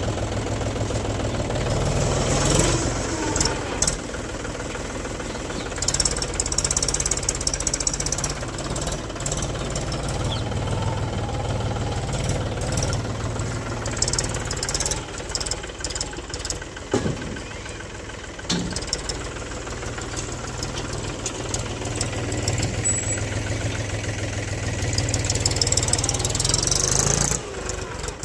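Mahindra tractor's diesel engine running steadily under load, its speed picking up for stretches near the start and near the end, with scattered short clanks throughout.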